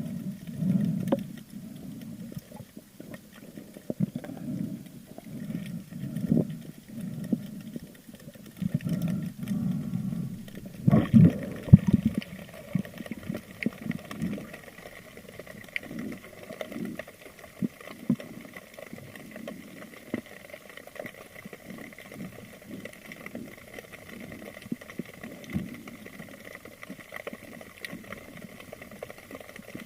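A spearfisher breathing hard through a snorkel, rough breaths about every second or two. About eleven seconds in there is a sudden loud splash as he goes under, followed by muffled underwater sound with scattered clicks and a faint steady whine.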